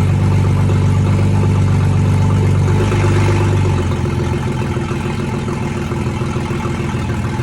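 Ford BA Falcon's engine running with no exhaust fitted: a steady low drone that drops in level and settles about four seconds in.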